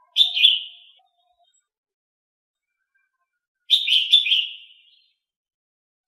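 A small songbird calling: two short, high, chirping phrases about three and a half seconds apart, each a quick run of notes that trails off.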